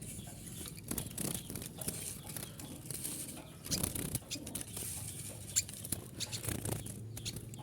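Irregular rustling, scuffling and small clicks of a hand reaching into a birdcage to catch a female kolibri ninja (konin).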